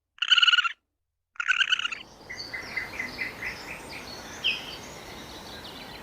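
A buzzy, trilling animal call of about half a second, given twice with dead silence between. A third call runs into steady outdoor background noise with a run of small birds chirping.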